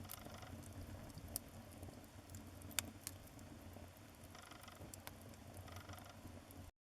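Fire burning faintly, a low rumble with scattered sharp crackles and pops. It cuts out abruptly near the end.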